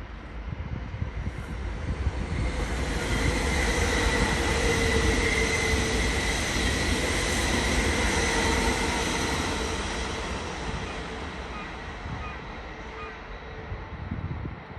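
Train passing through the station: the rumble and rush build over the first few seconds, peak in the middle with a steady high whine over them, then fade away over the last several seconds.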